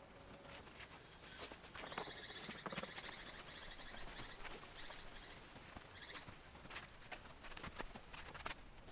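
A bird chirping in a quick run of repeated high notes about two seconds in, with a shorter burst near six seconds, over faint scattered clicks and knocks.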